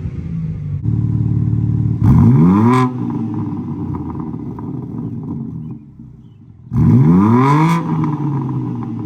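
BMW G80 M3 Competition's twin-turbo inline-six (S58), exhaust valves open, idling and sharply revved twice, the pitch shooting up and falling back each time; very aggressive and loud.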